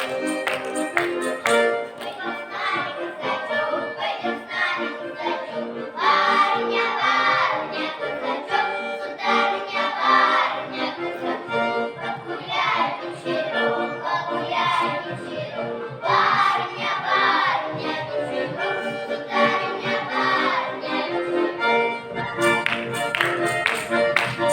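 A folk ensemble sings a Khoper Cossack song in lively sung phrases over accordion accompaniment. Sharp rhythmic taps sound in the first couple of seconds and again near the end.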